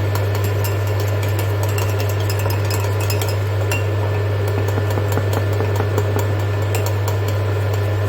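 A spoon clinking and scraping against a bowl, many small irregular clicks, while egg and semolina are stirred into a dumpling dough, over a steady low hum.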